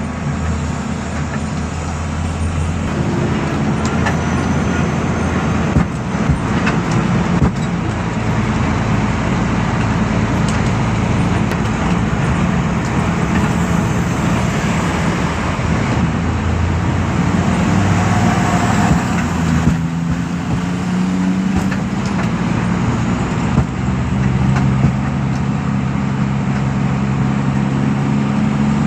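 Heavy diesel truck engine running steadily, its pitch shifting up and down a few times as the engine speed changes, with a few sharp knocks.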